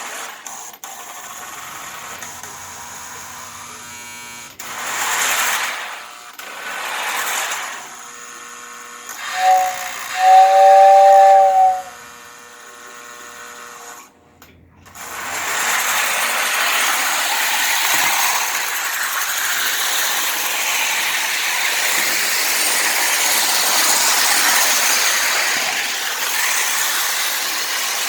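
Lionel Polar Express toy steam train running on its track: a small electric motor whirs, two steam hisses sound, then a two-note steam whistle blows for a couple of seconds about ten seconds in. The sound nearly cuts out around fourteen seconds in, and the train then runs on steadily and louder.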